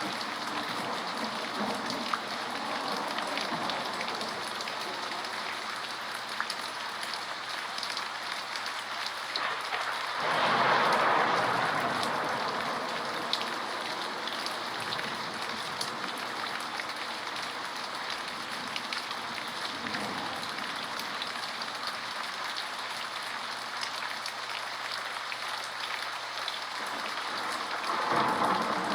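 Steady rain falling, an even hiss of drops that swells louder for a couple of seconds about ten seconds in and again near the end.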